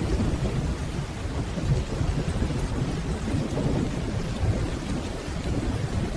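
Steady rainfall under a continuous low rumble of distant rolling thunder.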